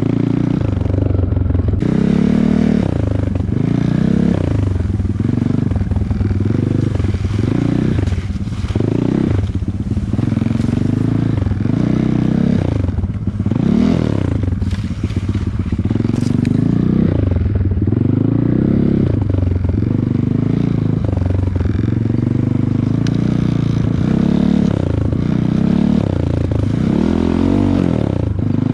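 Off-road motorcycle engine revving up and down over and over while riding, its pitch rising and falling every second or two, with clattering and scraping noise underneath.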